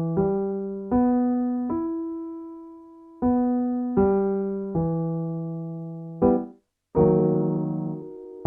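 Piano playing a vocal warm-up pattern: single notes and chords, each struck sharply and left to ring down, with a brief silence about two-thirds of the way through.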